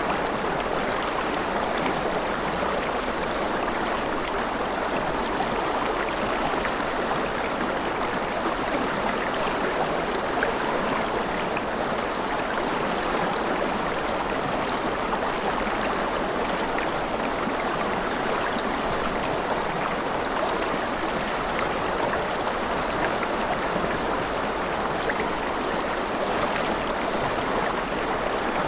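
River water flowing and splashing in a steady, unbroken rush, with faint small splashes and trickles through it.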